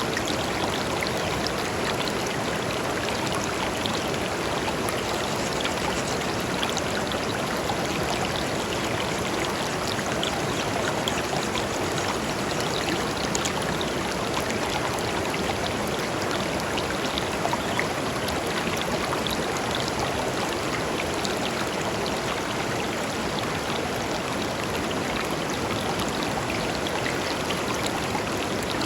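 A shallow river running steadily over stones, a continuous rush of water with small splashes and trickles throughout.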